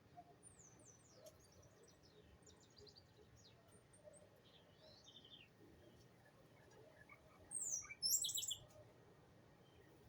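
Small birds chirping: a run of faint, quick high notes sliding downward, then two much louder bursts of chirping near the end.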